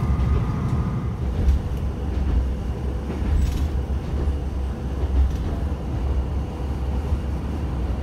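Tsugaru Railway diesel railcar running along the line, heard from inside the passenger cabin: a steady low rumble of engine and wheels on the track, with a faint steady hum.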